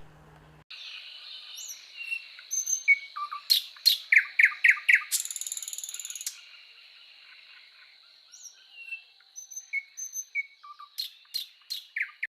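Small birds chirping: short, high, often falling calls in a quick run, with a rapid buzzy trill about five seconds in. A faint steady high tone, like an insect, sits underneath.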